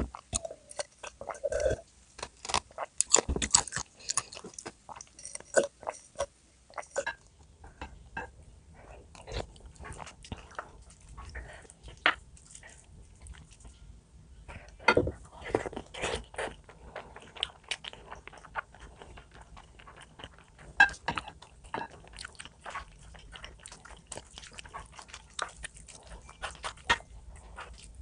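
A person eating close to the microphone: irregular chewing and biting with crunchy bites, the sounds coming in clusters.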